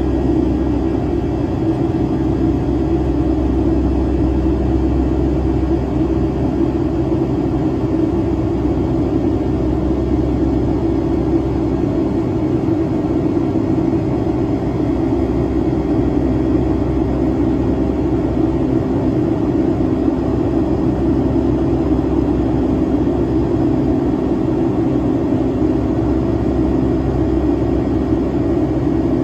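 Boeing 757-200's Pratt & Whitney engines heard from inside the passenger cabin: a loud, steady drone with a strong low hum that holds unchanged throughout.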